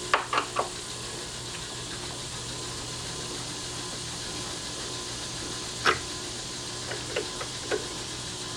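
Sharp clicks and knocks of a screwdriver working on a deadbolt's faceplate screws: three quick clicks at the start, one louder knock about six seconds in and a few lighter clicks near the end, over a steady hum.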